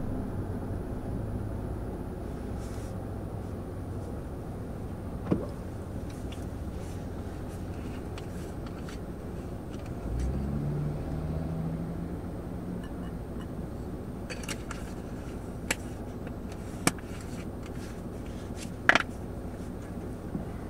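Fiat 500 TwinAir's 875 cc two-cylinder turbo engine idling while the car stands still, a steady low hum heard from inside the cabin. About ten seconds in a low tone rises and holds for a few seconds, and a few short sharp clicks come later.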